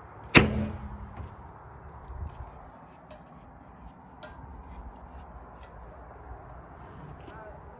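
A single sharp bang about half a second in, with a short low ringing tail, then faint background noise with scattered small clicks.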